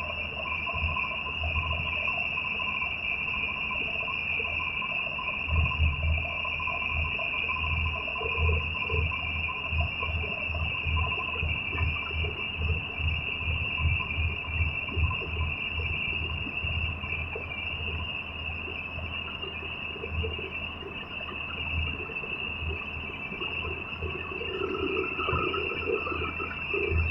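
A steady, high, continuous insect chorus, like crickets trilling, over an uneven low rumble with soft irregular thuds.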